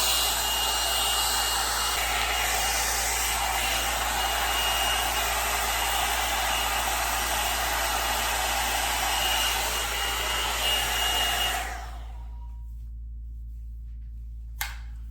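L'ANGE HAIR Le Volume 2-in-1 titanium blow dryer brush running steadily, blowing air with a faint high whine, then stopping about twelve seconds in. A short click near the end.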